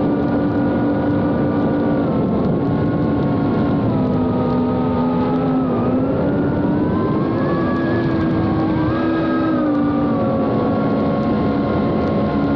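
FPV quadcopter's brushless motors and Gemfan D76 ducted propellers buzzing in flight with a steady, high-pitched hum. The pitch dips about five seconds in, climbs again a couple of seconds later, then settles as the throttle changes.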